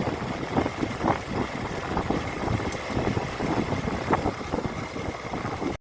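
Motorcycle engine running while the bike is ridden, with steady road noise.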